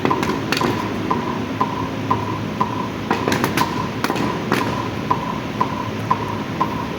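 A steady ticking beat of about two short ticks a second, like a clock or metronome track, over a murmuring crowd, with a few sharp slaps a little after the start and again from about three to four and a half seconds in.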